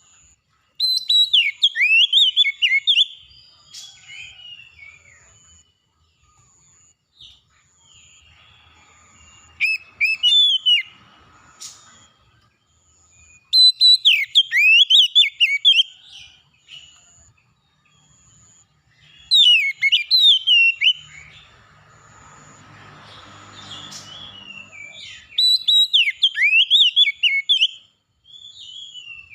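A songbird singing loud, rapid whistled phrases in five bursts of two to three seconds each, with a faint, thin high note repeating steadily in the background. A soft rushing noise with a low hum rises briefly a little past the middle.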